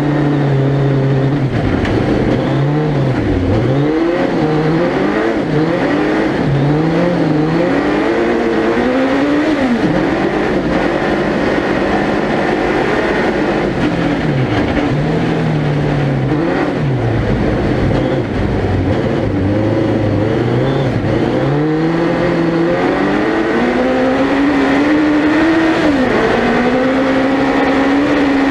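Suzuki Hayabusa 1300cc motorcycle engine in a four-wheel-drive ice-racing prototype, revving hard up and down through the corners. The pitch climbs and drops again every second or two, then holds a long rise near the end.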